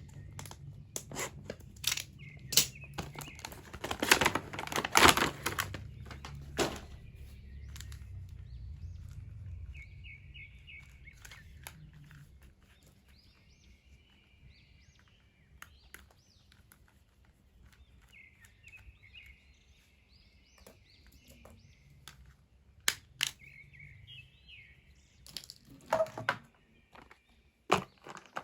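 Toy packaging being handled, with scattered clicks and knocks and a burst of crinkling about five seconds in. Bird chirps come and go in the background.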